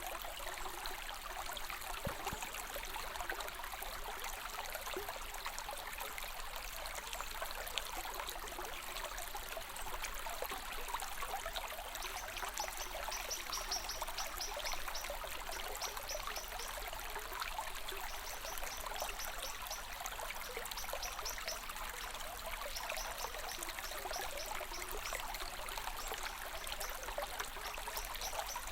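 Stream water flowing and trickling in a steady rush. About halfway through, a high, rapid chirping comes in and out in short runs over it.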